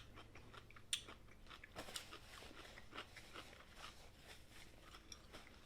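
Faint eating sounds: quiet chewing with scattered soft clicks and small crunches.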